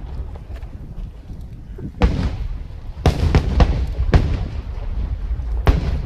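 Fireworks display bursting: a low rumble, then a run of sharp bangs from about two seconds in, several close together around the middle and another near the end, each trailing off in a short echo.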